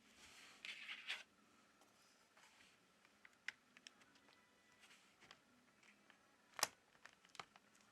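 Faint handling noises from a tablet being reassembled: a short scraping rustle in the first second, then scattered small clicks, with one sharper click about two-thirds of the way through.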